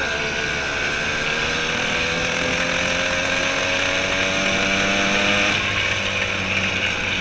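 Small gas engine of a motorized bicycle kit running under way, its pitch sinking slowly over the first five seconds as it eases off, then holding steady.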